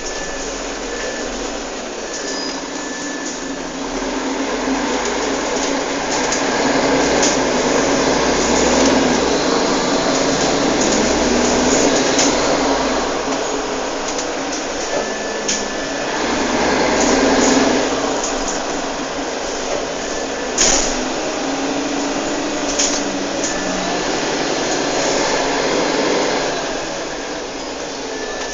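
Mercedes-Benz Citaro G C2 Euro 5 articulated city bus under way, its diesel engine and drivetrain noise swelling and easing off several times. A single sharp knock about twenty seconds in.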